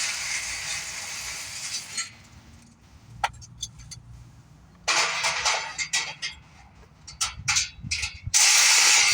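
Unpacking of a motorcycle shipping crate: bursts of rustling and scraping packaging, with scattered clicks and knocks in between.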